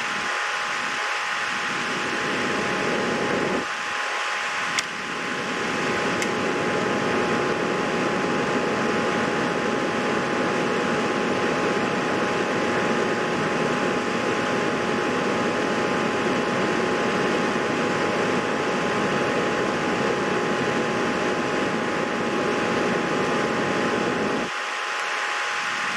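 Steady fan-like whir with a faint constant whine in it, and one sharp click about five seconds in.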